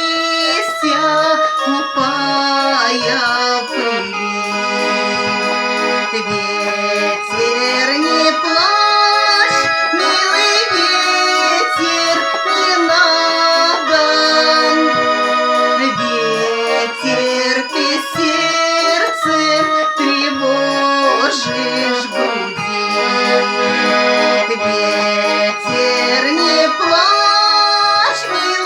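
Garmon, a Russian button accordion, playing an instrumental introduction: a sustained reedy melody over short, regularly repeated bass chords.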